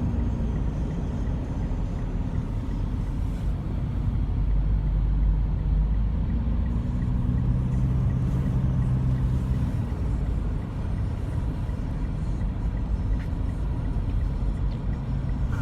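Steady road and engine noise inside a moving car: a low rumble with an engine hum that rises and falls slightly in pitch.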